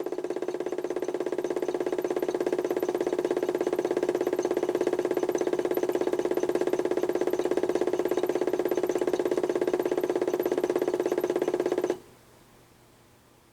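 HUSTOO 775 DC motor under PWM control, turning the drum of a modified toy washing machine through a pulley: it switches on abruptly, hums steadily at one speed with a fast ripple, and cuts off suddenly about twelve seconds in.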